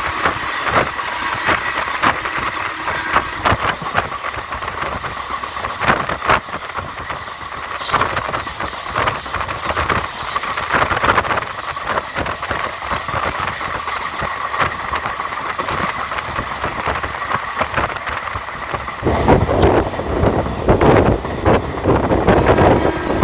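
Train running along the track, heard from on board: a steady rolling rumble with a light squeal and repeated clicks of the wheels over the rails. About nineteen seconds in, a loud rush of wind buffets the microphone.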